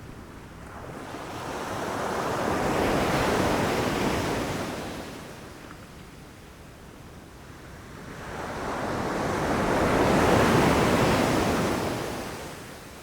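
Ocean waves rushing in and breaking on the shore, two swells that rise and fall away, the second louder, about seven seconds apart.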